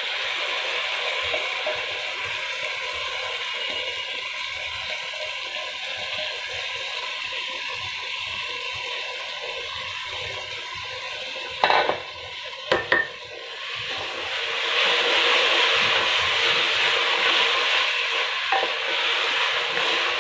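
Washed rice sizzling in hot oil with fried chana dal, tomato and green chillies in an aluminium pressure cooker, turned over with a wooden spatula. Two sharp knocks of the spatula against the pot about halfway through, and the sizzling grows louder over the last third as the rice is stirred through.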